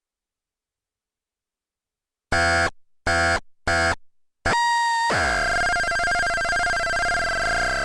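Electronic synth noise machine: three short, loud buzzy beeps, then a held tone that turns into a dense, warbling drone with lower tones sweeping down and back up beneath a steady pitch.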